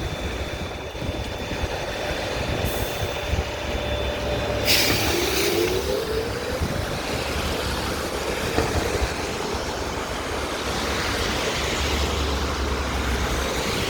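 BKM 32100D trolleybus running, heard from inside the cabin: a steady low rumble. About five seconds in there is a sudden hiss of compressed air, followed by a short rising electric whine.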